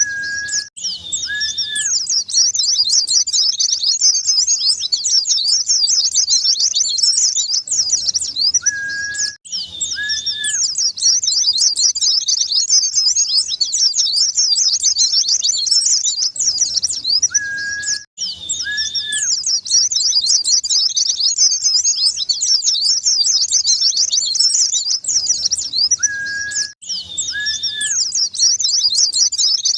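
White-eye (pleci) song: a fast, unbroken high-pitched twittering chatter. About every nine seconds a pair of short lower whistled notes and a brief mid note come round again, with a momentary dropout, as the same recording loops.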